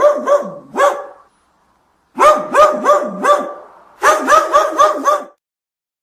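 A dog barking: short barks, several a second, in three quick runs with brief silent pauses between them.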